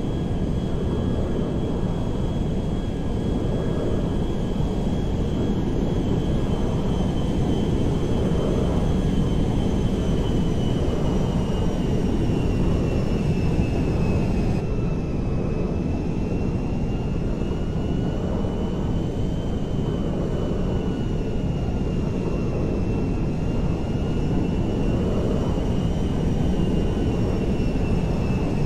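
Aircraft engines running steadily, a dense even rumble with a high whine that drifts slowly up and down in pitch.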